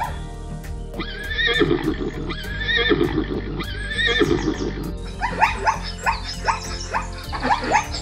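Zebras calling over background music. Three whinny-like calls come about a second and a half apart, then from about halfway a run of short, falling barks, about three a second.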